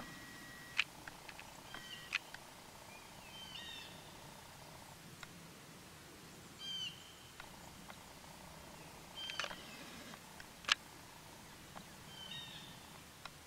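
Small birds chirping now and then in short calls, with a few sharp clicks; the loudest click comes about eleven seconds in.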